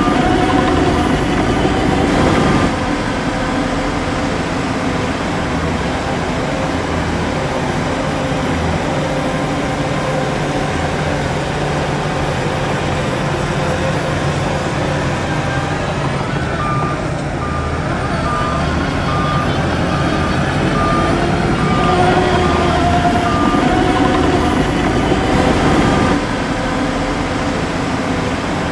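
Heavy diesel earthmoving machinery running steadily, its engine noise swelling for the first couple of seconds and again later. In the middle a reversing alarm beeps in a steady series.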